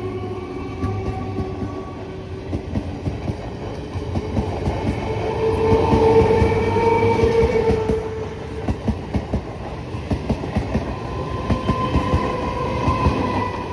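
Passing train, its wheels clattering over rail joints in a steady rhythm, with a steady tone over the rumble that is loudest about midway.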